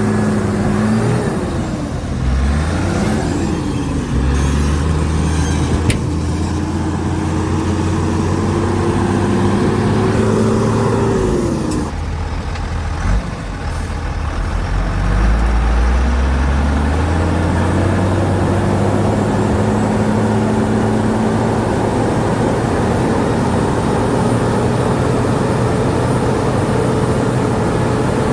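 Diesel engine of a Shantui DH17C2 bulldozer working under changing load. Its pitch dips briefly a couple of times early on, creeps up, drops sharply about twelve seconds in, then climbs back over a few seconds and holds steady.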